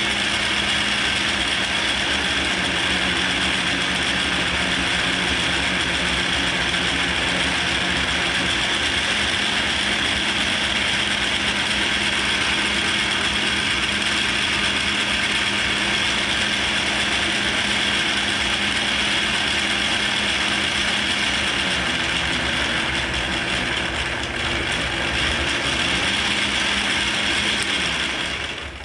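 Atlas 10F lathe running under power feed to cut a thread, its worn QC42 quick-change gearbox really loud with gear noise; the owner believes the gears bind up from excessive shaft wear, stalling the cut. The steady run wavers in its low tones in the last few seconds, then the machine stops abruptly at the very end.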